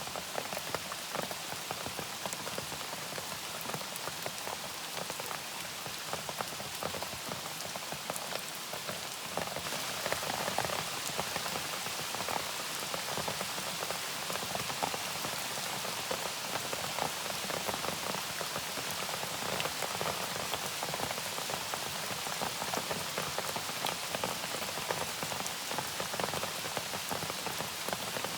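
Steady rain falling, with many separate drops pattering on a surface over an even hiss. It grows a little louder and brighter about ten seconds in.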